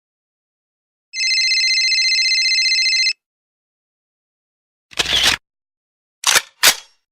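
A steady, high ringing tone with a fast flutter, lasting about two seconds. A short burst of noise follows, then two quicker bursts close together.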